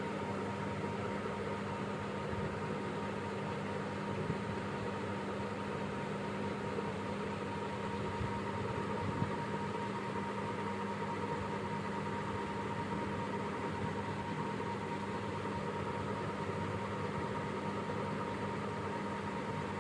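A steady mechanical hum with a hiss and a faint constant high tone, unchanging throughout, with only a few tiny clicks.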